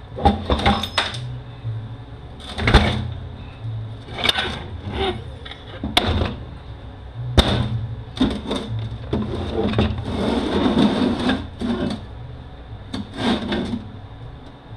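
Irregular metal clanks, knocks and some scraping as the front pump is worked loose and pulled out of a Mercedes 722.9 automatic transmission case, about a dozen sharp knocks with a longer scrape about two-thirds through.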